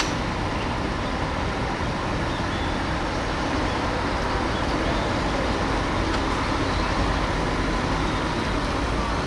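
Large police vehicles driving past in a parade column, a steady mix of engine rumble and road noise.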